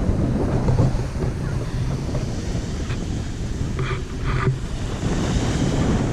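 Wind buffeting the microphone over surf breaking on a beach, with two brief higher-pitched sounds about four seconds in.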